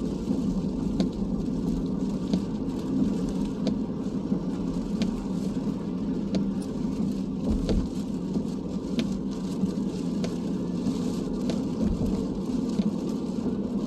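Steady road and engine noise heard from inside a car driving on a highway in the rain, with a faint tick repeating about every second and a half.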